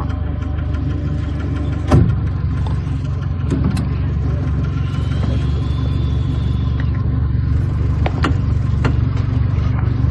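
A vehicle's engine running steadily with a low hum, with a single knock about two seconds in and a few sharp clicks near the end.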